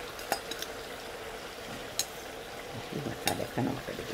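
Masala-coated boneless chicken pieces frying in hot coconut oil in a nonstick pan: a steady sizzle with scattered sharp pops, and a spatula stirring through the pieces near the end.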